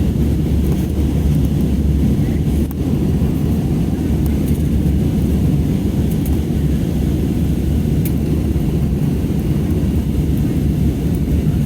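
Steady low rumble of a passenger jet in flight, engine and airflow noise heard from inside the cabin.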